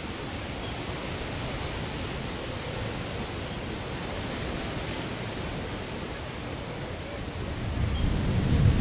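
Strong gusting wind blowing on the microphone: a steady rushing hiss that builds into a louder low rumbling buffet near the end as a stronger gust hits.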